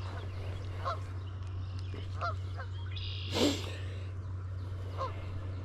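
Geese honking: several short, faint honks and one louder call about three and a half seconds in, over a steady low hum.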